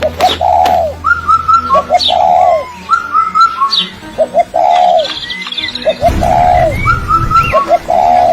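Birds calling: a repeated cooing phrase of one or two short notes and then a longer arched note, about once a second or so. Between the phrases come series of short, higher chirps and quick whistles.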